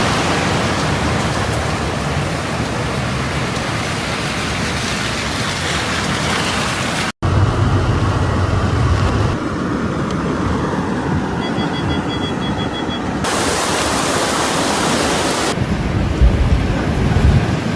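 Storm noise of heavy rain and wind, a steady rushing hiss. It changes abruptly a few times, with a brief dropout about seven seconds in.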